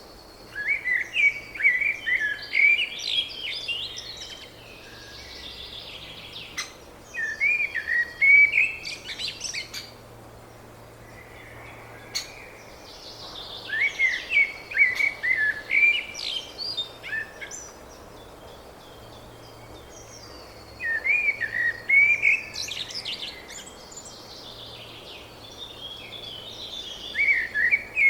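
A songbird singing, repeating a song phrase of a few seconds about every six to seven seconds, with short pauses between.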